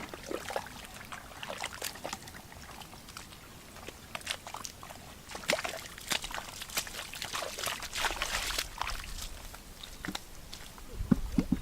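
Water sloshing and splashing in many small irregular splashes and drips.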